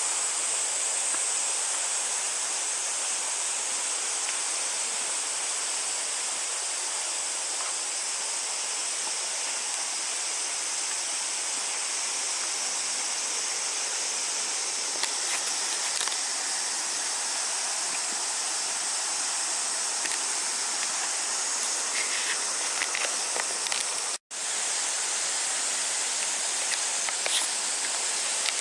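Steady outdoor ambient noise, a continuous high-pitched hiss, with a brief total dropout about 24 seconds in where two clips are joined.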